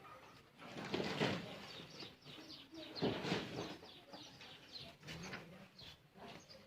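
A bird calling, a string of short repeated chirping notes, with two louder rustling swells about a second and three seconds in.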